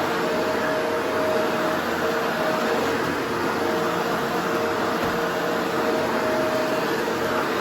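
Vacuum cleaner running steadily, a constant motor tone over rushing air.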